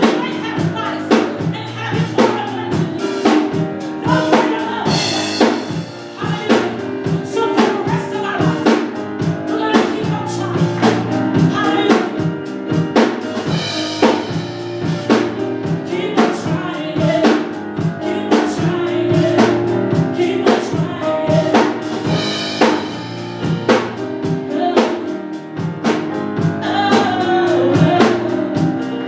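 Live gospel music: a drum kit keeping a steady beat under sustained band chords, with singing.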